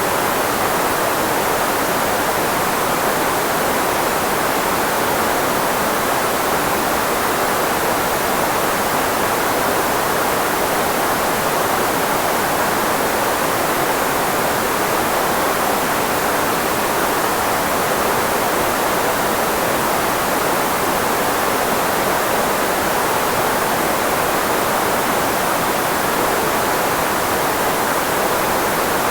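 Steady synthetic white noise, filtered so that it is strongest in the range of the human voice, used to mask speech. It runs without any change.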